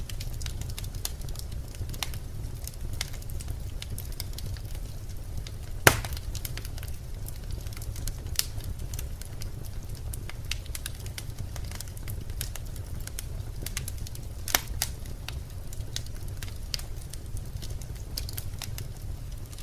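Birch logs burning in a fireplace: a steady low rumble of flame with frequent sharp crackles, and a loud pop about six seconds in and another near fifteen seconds.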